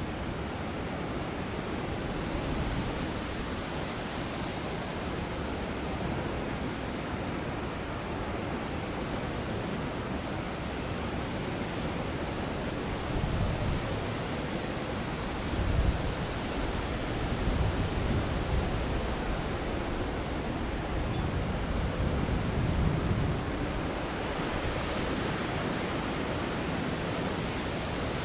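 Strong, gusty wind blowing, with irregular low rumbling buffets of wind striking the microphone as the gusts come through.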